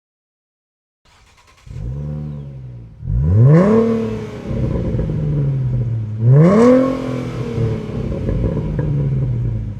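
A 2011–2014 Ford Mustang's 3.7L V6 through a Flowmaster Force II axle-back exhaust: it starts up about a second and a half in, settles to idle, and is blipped twice with quick revs that rise and fall back to idle.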